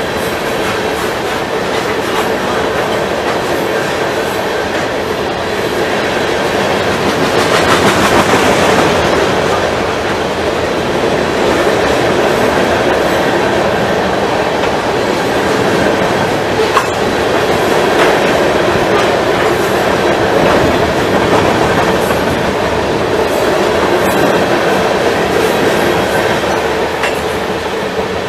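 Freight train of covered hopper cars rolling past, its steel wheels running steadily over the rails. The noise swells a little about eight seconds in, with one sharp click past the middle.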